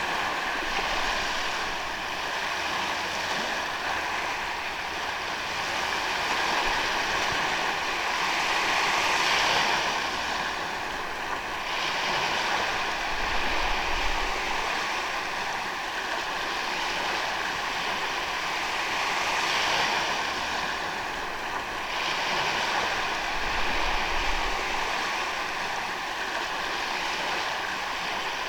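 Ocean waves breaking and washing up on a sandy beach, the surf swelling and easing roughly every ten seconds.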